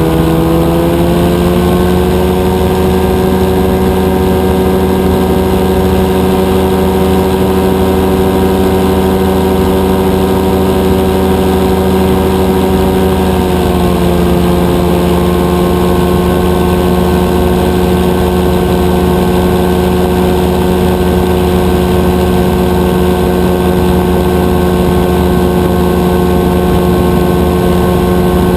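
Rotax 582 two-stroke twin engine of a powered parachute running steadily at power. Its pitch climbs over the first couple of seconds, then drops slightly about halfway through and holds there.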